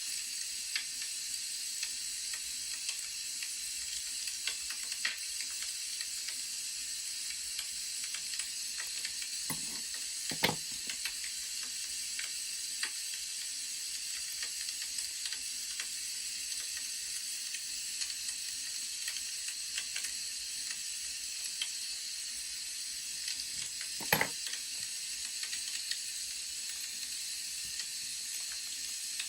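Crackling wood fire: a steady hiss scattered with small pops and snaps. Two louder soft knocks come through, about a third of the way in and again near the end.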